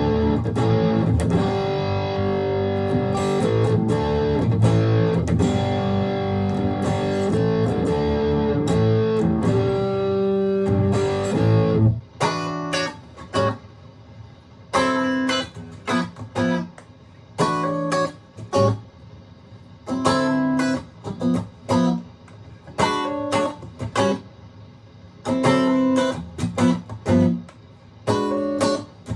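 Aria STG series electric guitar being played: about twelve seconds of sustained, ringing chords and notes, then short, choppy stabs with brief gaps between them.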